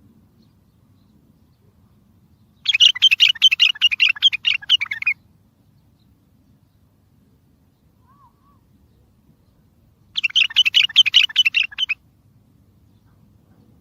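Bulbul singing: two loud bursts of rapid, chattering notes, the first lasting about two and a half seconds and the second just under two seconds, with a pause of about five seconds between them.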